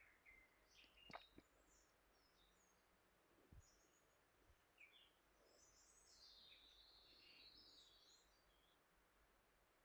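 Near silence with faint bird chirps in the background, a longer run of twittering about six seconds in, and a couple of light clicks just after a second.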